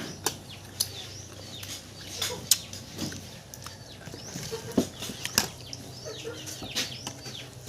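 Mouth smacks and chewing while eating mango: several sharp, separate smacks a second or so apart, with short falling chirps of birds in the background.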